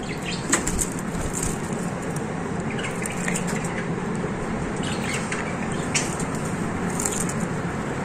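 Cage birds, budgerigars among them, giving short scattered chirps at irregular moments over a steady background noise.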